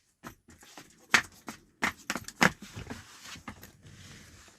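A run of irregular sharp clicks and taps, a few of them loud, over a faint background hiss.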